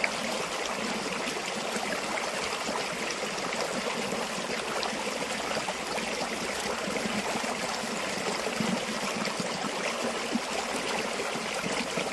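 River water flowing and babbling steadily over stones, an even rushing hiss with small gurgles.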